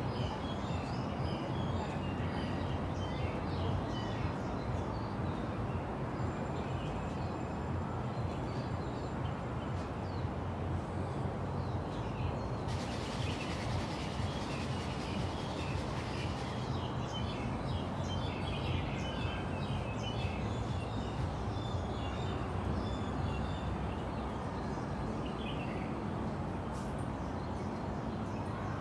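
Many small birds chirping in short, scattered calls over a steady low background rumble.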